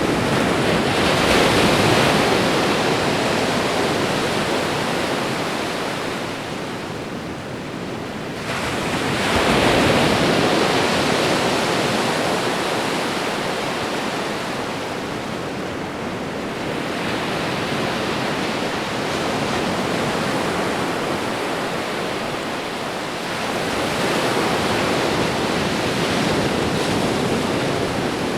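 Ocean waves washing on a shore, a continuous surf hiss that swells as each wave breaks: strong surges about a second in and around ten seconds, with gentler ones later.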